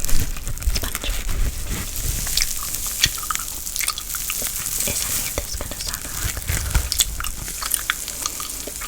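Close-miked ASMR trigger sounds: a dense crackly rustle with many small clicks and occasional low thumps, made by something moving against the microphone.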